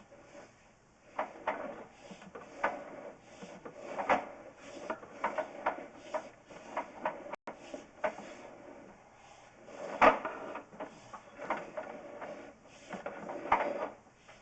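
Plumber's push-rod drain inspection camera being fed up a drain line: irregular knocks and scraping as the cable and camera head rub and bump through the pipe, with one louder knock about ten seconds in.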